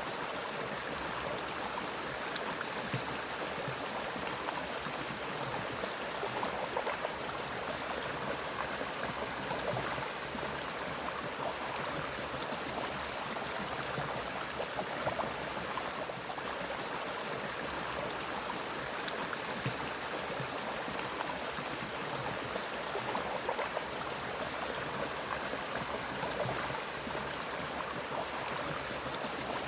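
Mountain stream flowing through forest: a steady rush and burble of running water, with a thin, steady high-pitched tone above it.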